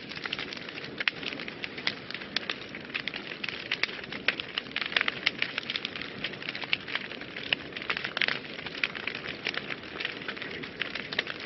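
Wood fire burning in a fireplace, crackling and popping with many irregular sharp snaps over a steady hiss.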